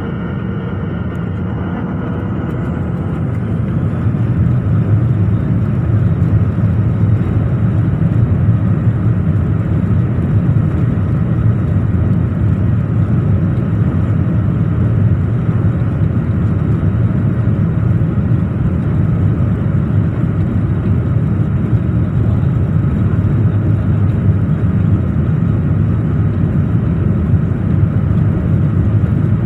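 Airliner jet engines heard from inside the cabin, spooling up to takeoff power with a rising high whine over the first few seconds. They then settle into a steady, loud, deep rumble as the plane accelerates on its takeoff roll.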